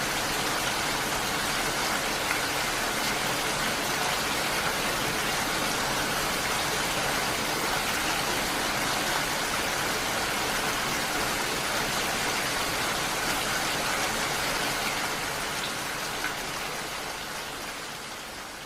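Steady rain falling, an even hiss of drops, fading out over the last few seconds.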